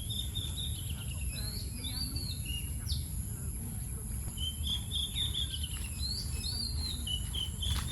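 A songbird singing a run of whistled notes, the phrase heard twice, over a steady low rumble.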